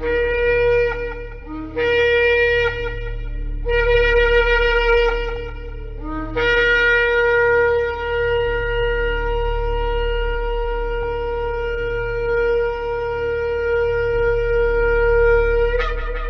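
Shofar (ram's horn) blown in a series of blasts: three of about two seconds each, each starting low and jumping up to its main note, then one long blast held for about nine seconds that breaks upward in pitch as it ends. A steady low drone runs underneath.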